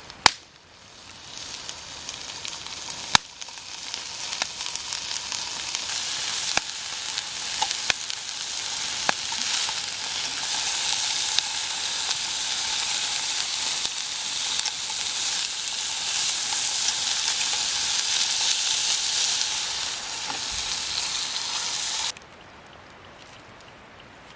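Curry ingredients sizzling as they fry in a pan, growing louder over the first ten seconds or so and then stopping abruptly near the end. A sharp click just after the start and another about three seconds in.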